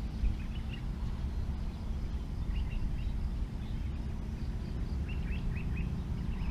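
Small birds chirping in short quick runs of three or four notes, over a steady low rumble.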